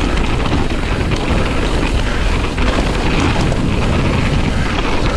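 Wind buffeting the microphone during a bicycle ride: a loud, steady, rumbling rush of noise with no clear pitch.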